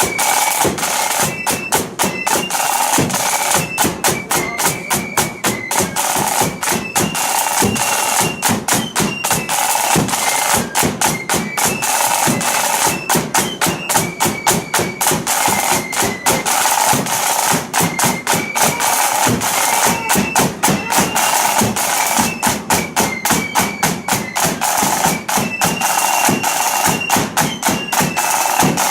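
Blood-and-thunder flute band playing a march: massed flutes carrying a stepping melody over rapid, dense side-drum strokes and drum rolls.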